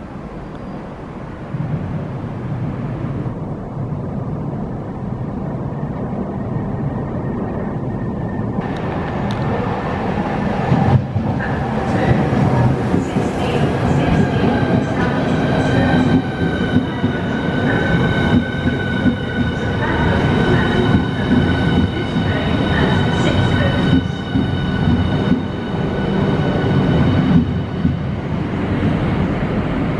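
Southeastern Class 395 Javelin, a Hitachi electric multiple unit, running in alongside the platform with a heavy rumble of wheels on rail that grows louder. From about twelve seconds in, several steady high whining tones ride over the rumble, then fade near the end.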